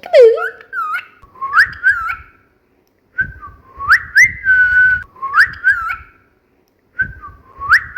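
Cockatiel whistling a tune: phrases of rising and falling whistled notes, the same phrase repeated, broken by two short pauses.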